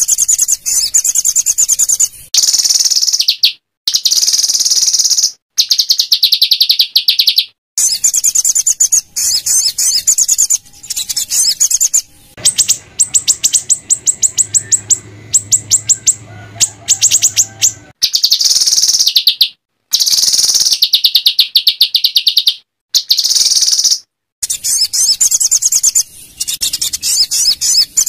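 Small songbirds singing loud, very rapid high-pitched trills of fast-repeated notes, the harsh 'shot' phrases used to train white-rumped shamas. The phrases last one to three seconds and break off abruptly between them.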